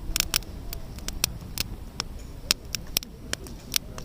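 Wood campfire crackling: irregular sharp pops and snaps over the low rumble of the burning fire, with one louder pop about two and a half seconds in.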